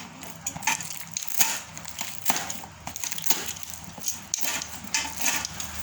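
Irregular knocks, clatter and crackling from unpacking and handling a newly delivered grinder-type feed pellet machine and its parts.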